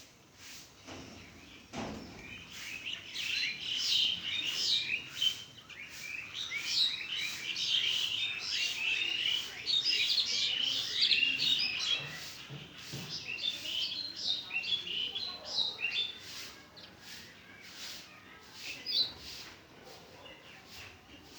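A group of house sparrows chirping in quick, overlapping bursts. The chirping is busiest in the middle and thins out near the end, with a single low thump about two seconds in.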